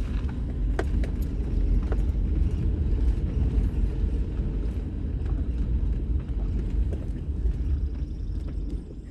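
Vehicle driving, heard from inside the cab: a steady low rumble of engine and tyres on the road, with a few small knocks, easing off near the end.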